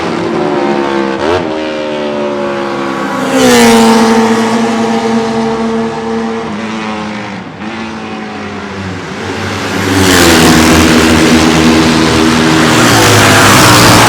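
Two-stroke racing motorcycle engine revving. It gives a quick blip about a second in, then climbs to high revs and holds them for a couple of seconds, drops back, and climbs again and holds loud from about ten seconds in.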